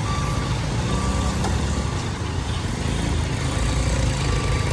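Heavy truck engine running with a steady low rumble, with a few short high beeps over it.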